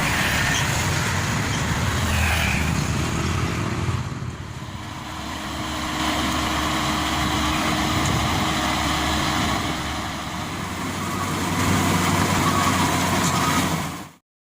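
A heavy vehicle's engine runs steadily, easing off for a second or two about four seconds in, then building again. The sound cuts off abruptly just before the end.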